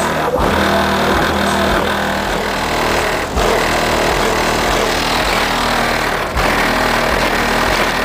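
Car audio system's 18-inch subwoofer playing bass-heavy music very loud, its deep bass notes pulsing on and off in a repeating pattern. There are two short drops, about three seconds and six seconds in.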